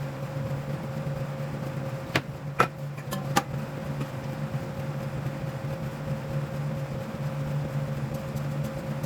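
A steady machine hum, with a few sharp clicks a couple of seconds in.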